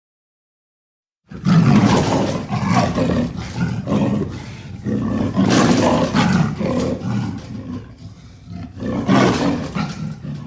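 Leopard growling and roaring, starting about a second in, with louder surges near the middle and near the end.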